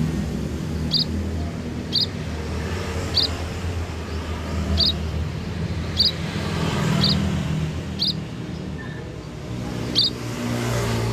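Munia giving short high chirps about once a second, over a low steady hum.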